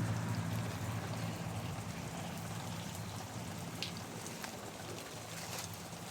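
Water spray from rotating garden sprinklers falling and pattering in a steady hiss, with a few faint ticks late on. A low hum fades out in the first second.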